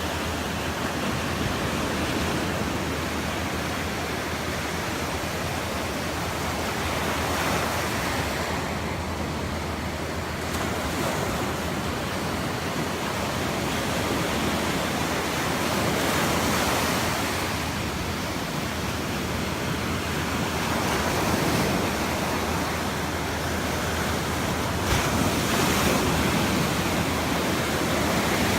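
Ocean surf washing onto a beach, swelling and easing every few seconds, with some wind on the microphone.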